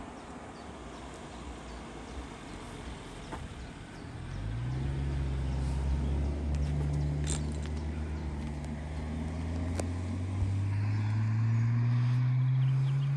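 A Peugeot 404's engine comes in about four seconds in, holds a steady note, and then rises slowly in pitch as the car accelerates.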